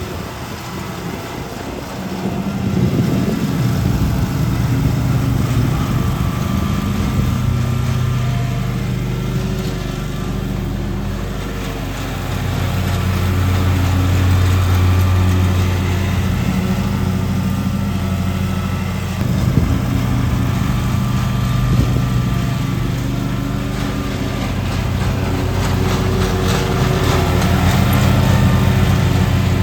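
Lawn mower engine running steadily; its note drops lower for several seconds in the middle, then rises again.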